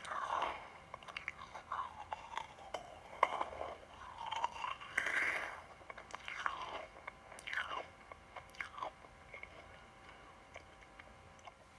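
Close-miked chewing of crunchy sweets: irregular soft crunches and mouth sounds that grow sparser and fade out near the end.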